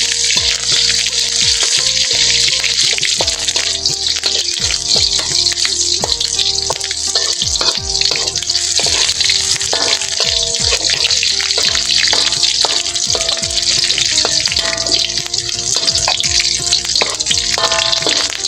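Sliced garlic, ginger and lemongrass sizzling in hot oil in a wok, with a spatula stirring and scraping against the pan many times. Background music plays alongside.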